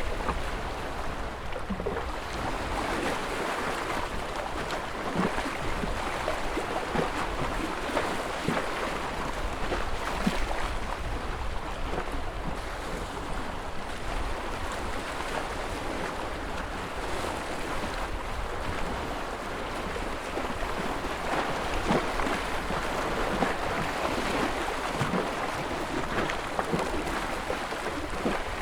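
Ocean waves washing continuously, swelling and easing every few seconds, with small splashes and a low rumble underneath.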